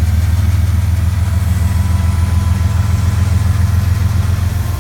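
Diesel locomotive 5405's engine running with a steady low rumble while shunting cars, sounding terrible.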